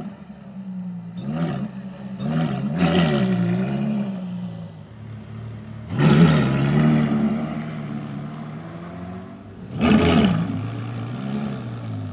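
Ferrari California's V8 engine revving as the car drives along. Its pitch rises and falls several times, with two sharper, louder rises about six and ten seconds in, each dying away.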